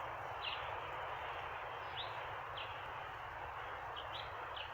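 Outdoor ambience with a steady hiss and a bird's short, high chirps, about five in a few seconds.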